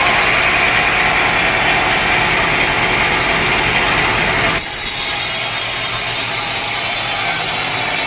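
Sawmill saw running through dense teak wood, a loud steady cutting noise. The sound changes abruptly a little over halfway through.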